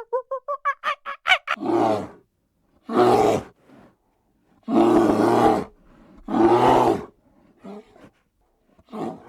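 Donkey braying: a run of quick squeaky pulses that speed up and rise, then a series of loud, rough hee-haw calls, each about a second long, with fainter drawn-in sounds between them.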